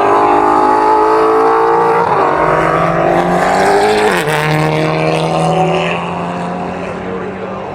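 Race car engine at high revs, its pitch climbing, then dropping sharply about four seconds in and holding steady as it slowly fades.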